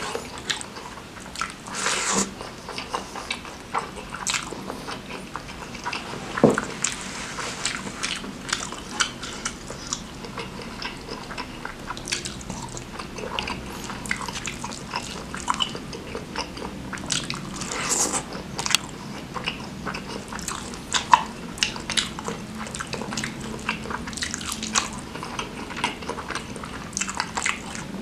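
Close-miked chewing and wet mouth sounds of a person eating rice mixed with spicy Samyang noodles by hand, with irregular sharp smacks and clicks throughout.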